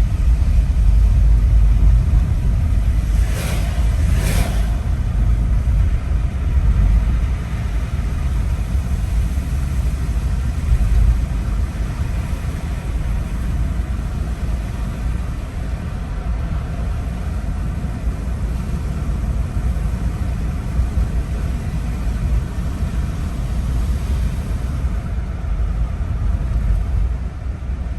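A car driving, with a steady low rumble of engine and road noise. Two short rushing sounds come about three and four and a half seconds in.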